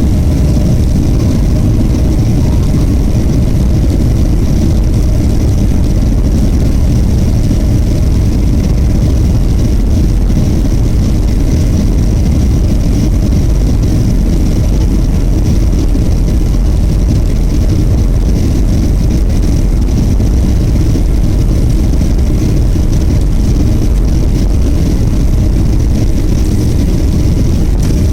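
Loud, steady drone of a Boeing 737-500 in flight, heard from inside the cabin: the hum of its CFM56-3 turbofan engines mixed with the rush of air past the fuselage.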